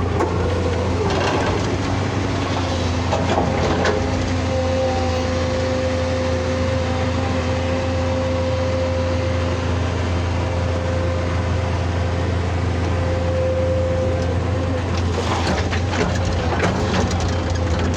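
Excavator engine running steadily with a low hum, joined for about twelve seconds by a steady whine. There are knocks and cracking sounds near the start and again near the end.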